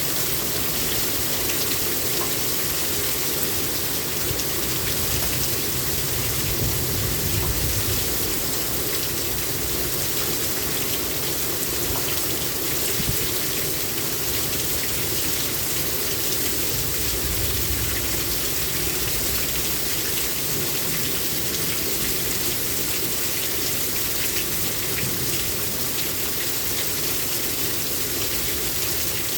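Heavy rain pouring down steadily, hissing on surfaces. A low rumble of thunder swells about seven seconds in and again around seventeen seconds.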